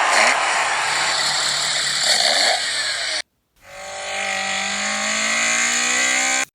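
Diecast toy cars rolling down a race track: a steady rushing rolling noise, then, after a sudden break a little past three seconds, a whine that slowly rises in pitch as the wheels spin up.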